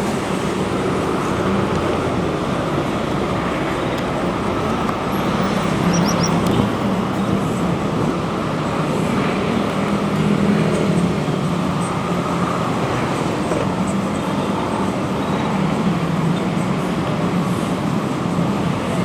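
Doho passenger train rolling slowly past with a steady rumble and a low hum.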